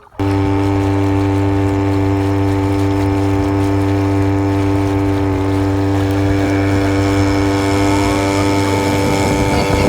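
A motor running at a steady speed: a constant hum with a fixed pitch that comes in abruptly just after the start and holds unchanged.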